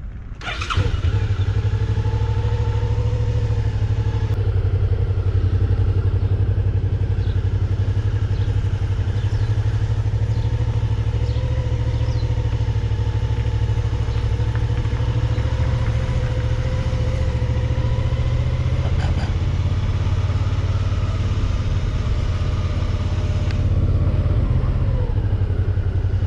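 Suzuki V-Strom 650's V-twin engine running as the motorcycle rides along. It grows suddenly louder about a second in, then holds a steady low drone.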